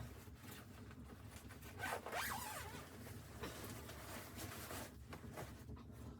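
Close rustling and scraping of handled gear, a run of short rasping strokes, the loudest a sweeping rasp about two seconds in.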